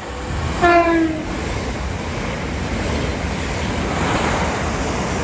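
Southeastern Class 375 electric multiple unit passing through the station, sounding a short horn blast about half a second in, its pitch falling slightly. The rushing, rumbling noise of the train going by then builds to a peak around four seconds in.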